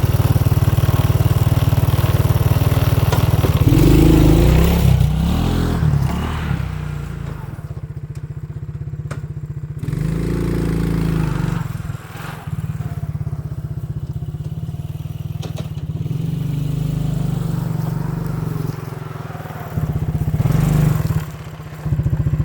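An engine running steadily, swelling in pitch and loudness a couple of times.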